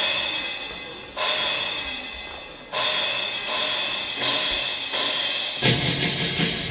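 Korean folk music for a dance, opening with bright metallic percussion strikes that ring out and fade, spaced about a second and a half apart and then coming faster. Deeper drums and more struck notes join near the end.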